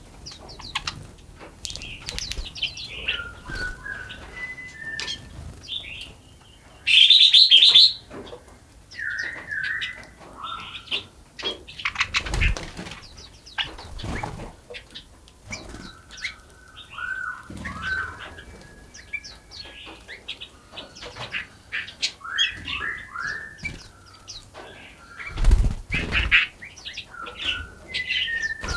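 Small birds chirping and calling in quick short notes. About seven seconds in comes a loud, roughly one-second burst of noise, and there are dull thumps around twelve and twenty-six seconds.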